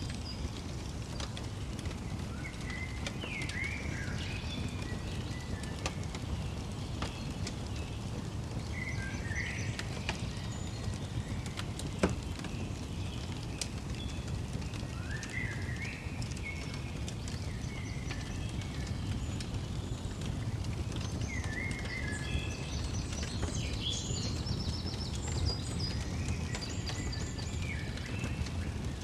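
A fire crackling over a steady low rumble, with scattered small pops and one sharp pop about halfway through. Songbirds call every few seconds in short sliding phrases, joined by rapid high chirping in the second half.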